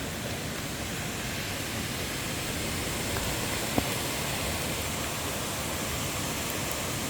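Strong thunderstorm wind gusting through trees, a steady rushing noise. There is one sharp click about four seconds in.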